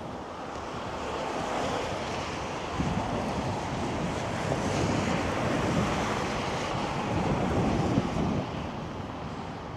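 Passing traffic on a slushy city street, its tyre noise swelling over several seconds and easing near the end, mixed with wind buffeting the microphone.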